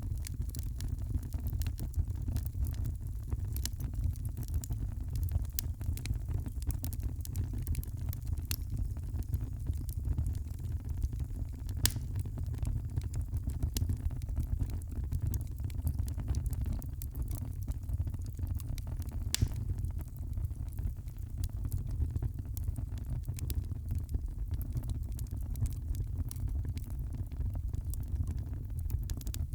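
Wood fire crackling in a fireplace: frequent sharp pops and snaps over a steady low rumble of the flames, with a louder pop about twelve seconds in and another near twenty seconds.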